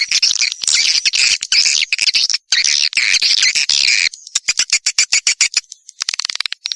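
Swiftlets chattering in a dense, high twittering trill, followed about four seconds in by a rapid train of sharp clicks, with a buzzy call coming back near the end: a swiftlet lure call of the kind played to attract the birds to nest houses.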